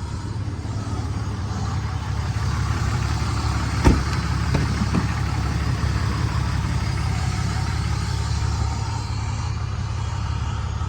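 2011 Ram 3500's 6.7-litre Cummins inline-six turbo diesel idling steadily, with a single sharp knock about four seconds in.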